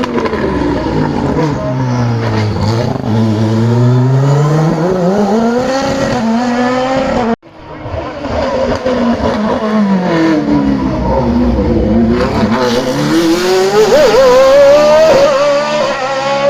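Race car engines on a hillclimb course, run loud. The engine note falls and then climbs again as the car gets back on the throttle. An abrupt cut about seven seconds in leads to a second car doing the same, its revs rising high near the end.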